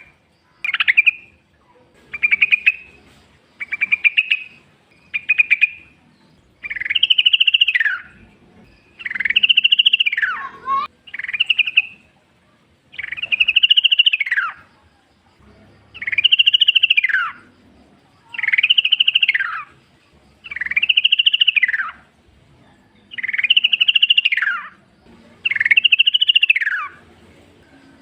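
Yellow-vented bulbul (trucukan) calling: a run of short buzzy notes, then repeated longer calls that each rise and then fall in pitch, about one every two seconds.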